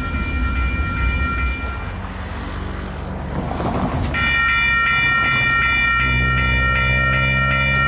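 Freight train's diesel locomotive air horn sounding a chord of several notes. A first blast cuts off about two seconds in, and a second long blast starts about four seconds in, over the low rumble of the diesel engines.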